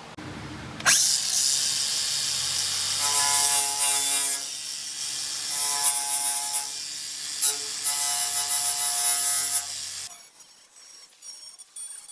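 A power tool run against sheet metal. It starts abruptly about a second in and stops near the end, with a pitched whine coming and going three times as the tool bears on the metal.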